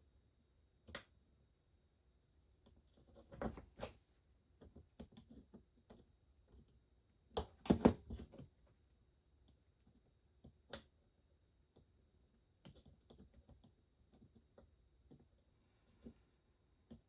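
Scattered small clicks and taps of tools and parts being handled on a workbench, with a louder cluster of knocks about eight seconds in and a smaller one about three and a half seconds in.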